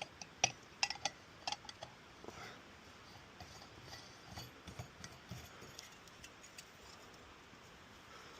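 Small hard objects clinking and tapping as they are handled: a quick run of sharp clicks in the first two seconds, then fainter scattered ticks.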